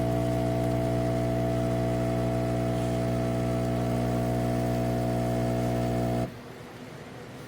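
Fully automatic coffee machine running with a steady hum, most likely its water pump. The hum cuts off suddenly about six seconds in.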